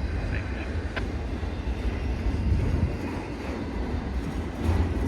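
Freight train rolling past: a steady low rumble of wheels and cars on the rails.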